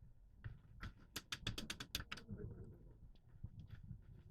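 Airsoft gun firing a rapid burst of about nine sharp cracks in roughly a second, a little after a second in, with a couple of single clicks before it.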